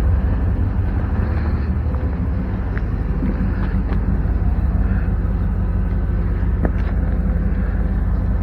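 Car running with a steady low engine hum.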